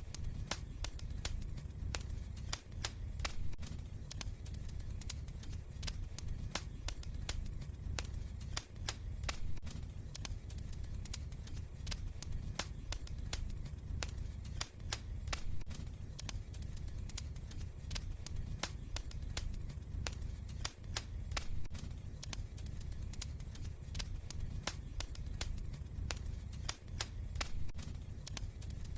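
Wood fire crackling in a fireplace: irregular sharp pops and snaps, several a second, over the low rumble of the flames.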